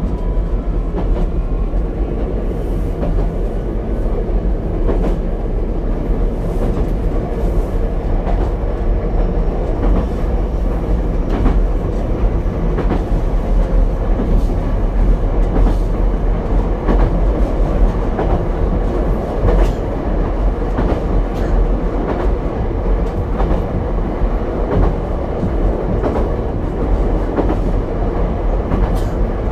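Ichibata Electric Railway 7000-series single-car electric train heard from inside while running at speed: a steady rumble and hum, with the wheels clicking over rail joints again and again.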